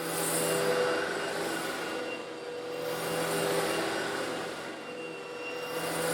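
Old Eureka vacuum cleaner running steadily while sucking up coarse stone granules slightly larger than sand. A hiss and rattle of grit swells and fades about every three seconds over the motor's steady hum.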